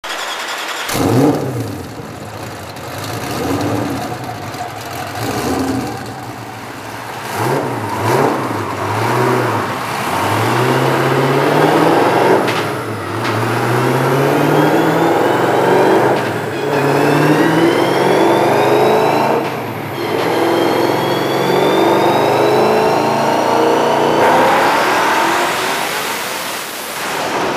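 Twin-turbo Ford GT's V8 engine revving unevenly at first, then accelerating hard up through the gears. The pitch climbs steadily and drops back at each of about three upshifts in the second half.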